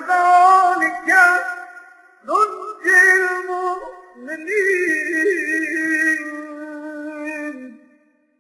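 A male reciter chanting a prayer phrase in a drawn-out melodic style, unaccompanied, in three sustained phrases with ornamented, wavering pitch; the last phrase is the longest.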